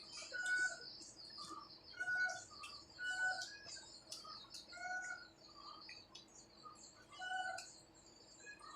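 Birds calling and chirping: a short two-pitched call repeats every second or two among quicker high chirps.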